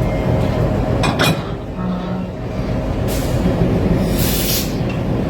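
Diesel railway locomotive running with a steady low rumble. A sharp metallic clank comes about a second in, and two short hisses, like air from the brakes, come later.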